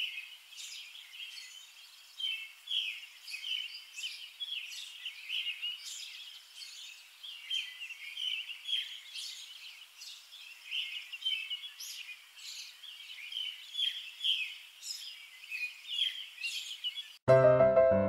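Small birds chirping, a dense steady run of short high calls. Piano music comes in abruptly near the end.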